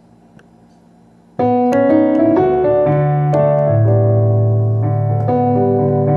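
Low background hiss, then about a second and a half in a piano starts playing the song's intro: sustained chords over a low bass line with a melody on top.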